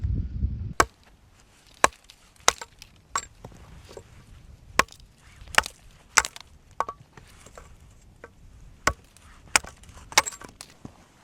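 Wood being chopped: about a dozen sharp strokes at uneven intervals, with a low rumble in the first second.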